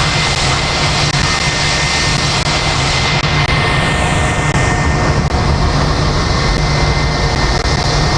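Airbus A380 four-engine jetliner at takeoff thrust, a loud steady jet roar with a thin high whine; about three seconds in, the high hiss begins to fade as the aircraft draws away.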